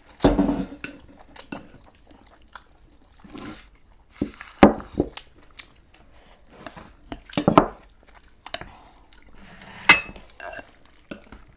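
Utensils clinking and knocking against bowls and dishes in irregular sharp clicks, with a few louder knocks.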